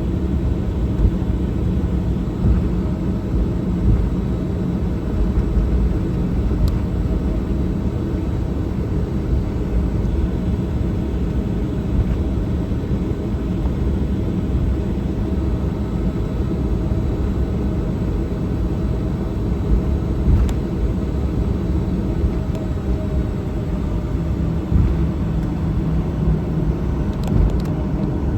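Steady cabin noise of a Boeing 737-800 in flight: a continuous low rumble of airflow and the CFM56-7B turbofan engines, with a faint steady hum and a few faint clicks.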